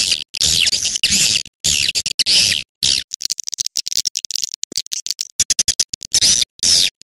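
Recorded swiftlet calls, played as a lure call for swiftlets: bursts of high, chattering chirps broken by abrupt gaps. In the middle they give way to a rapid, clicking twitter for a few seconds, then the chirping bursts return.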